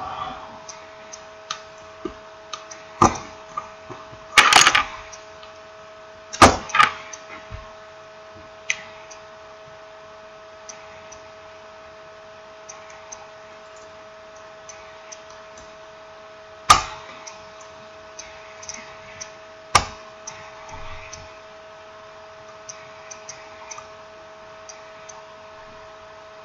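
Irregular clicks, taps and knocks of small phone parts and tools being handled on a hard surface during smartphone repair, the loudest a cluster a few seconds in and two sharp knocks later. A steady electrical hum runs underneath.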